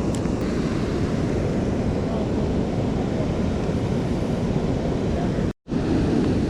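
Steady rush of water pouring over a river spillway, mixed with heavy rain.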